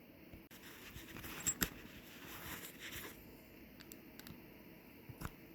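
Faint handling of a small brass lock and keys: a few light clicks and some rubbing and rustling.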